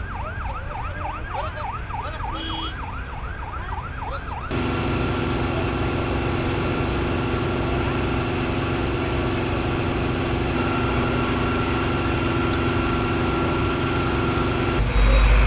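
An emergency vehicle siren on a fast yelp, its pitch sweeping up and down about three times a second, cutting off after about four and a half seconds. A steady engine-like drone with a held tone follows, and a loud low rumble comes near the end.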